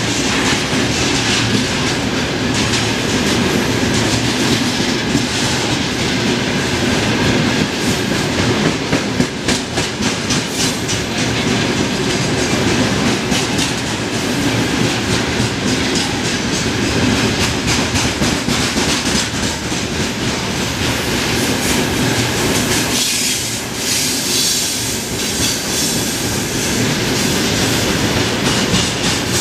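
Freight train of open-top gondola wagons rolling past at speed: a steady rumble of steel wheels on rail with a constant clickety-clack of wheels over rail joints.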